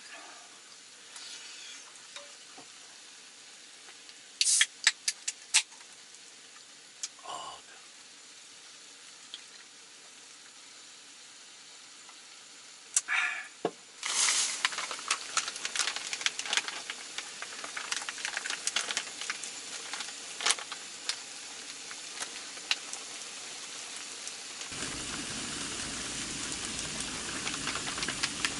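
Spicy chicken feet in sauce sizzling in a cast-iron skillet on a portable gas stove, crackling busily from about halfway through. There are a few sharp clicks before that, and the sound turns into a steadier, fuller hiss near the end.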